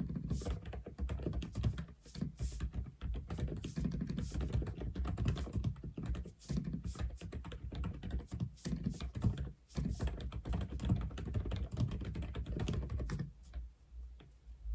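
Fast, continuous typing on an Aula F87 ('독거미') mechanical keyboard: a dense run of deep key clacks that drops off to a few sparse keystrokes about a second and a half before the end.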